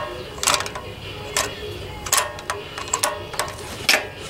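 Socket ratchet being swung back and forth, its pawl clicking in short bursts about every half second, as a spark plug is turned out.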